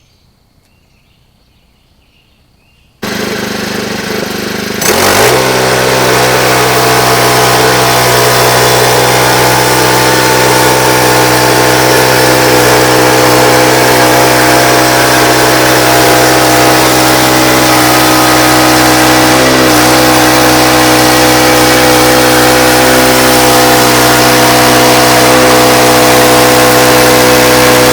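Loader engine being started: about three seconds in the starter cranks it over, it catches near the five-second mark and revs up, then runs steadily and loudly. Faint bird chirps before the start.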